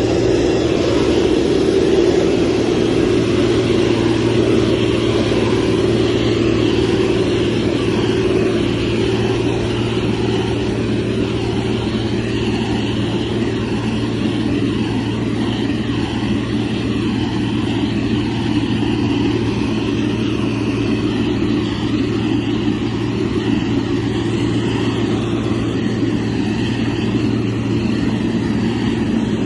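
Diesel engine of a heavy earthmoving machine running steadily under work, a continuous low drone with no pauses or sharp revs.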